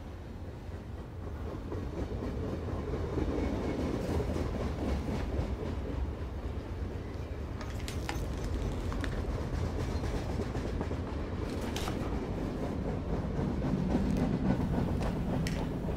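Train running past a station platform: a steady low rumble with rail clatter that swells after a few seconds and again near the end, with a few sharp clicks in between.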